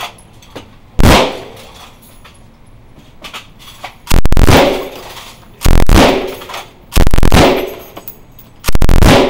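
M249 squad automatic weapon, a belt-fed 5.56 mm light machine gun, firing five short bursts a second or so apart, each loud enough to overload the recording and followed by a ringing tail.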